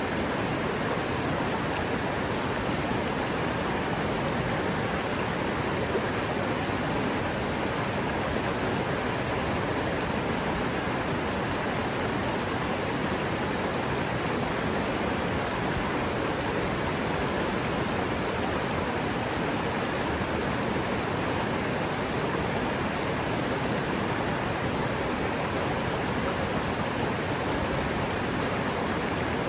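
River water running with a steady, even rush.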